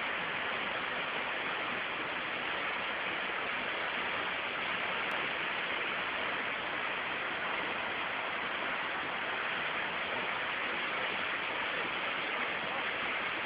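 A waterfall's falling water making a steady, even rush of noise that does not change.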